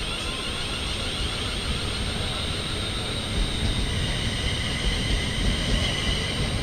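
A train passing through the station, with a steady rumble and a high whine that drops in pitch about four seconds in.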